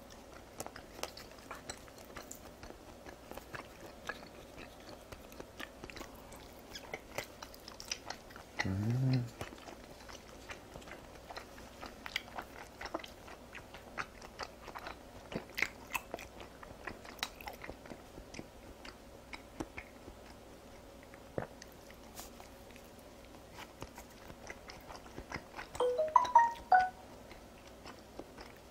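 Close-miked chewing of raw beef slices (yuk sashimi): soft wet smacks and small mouth clicks throughout. A short low hum rising in pitch comes about nine seconds in, and a brief higher pitched sound, the loudest moment, comes near the end.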